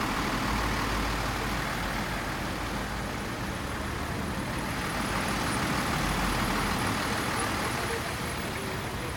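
Steady road traffic noise: vehicle engines running and tyres on the road, a continuous low rumble.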